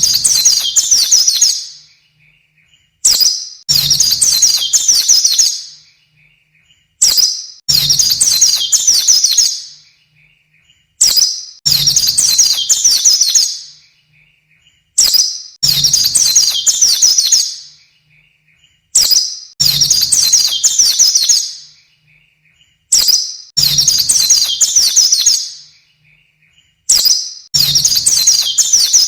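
Pleci (white-eye) song: a rapid, high-pitched twittering phrase of about two seconds, repeated identically every four seconds, played as a looped masteran tutor recording for training caged birds.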